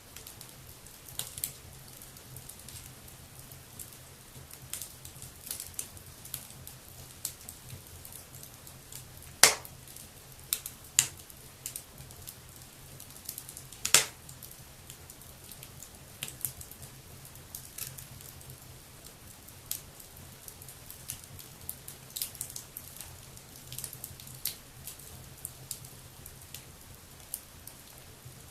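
Wood fire burning in a fireplace, crackling with scattered small pops and a few louder, sharper snaps, the loudest about a third of the way through and again about halfway.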